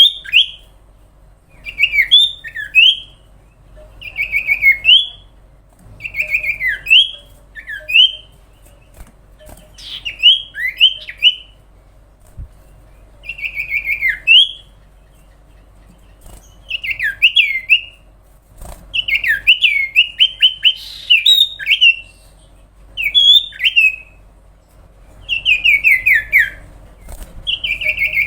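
Common iora (cipow/sirtu) singing in an active, full-voiced bout. It gives short phrases of quick sliding chirps, one every second or two, with brief pauses between.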